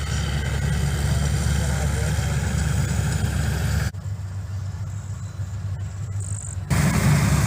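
Combine harvester running steadily: a low engine drone under a haze of machinery noise. About halfway through the higher noise drops away abruptly for about three seconds, leaving only the low drone, then returns louder.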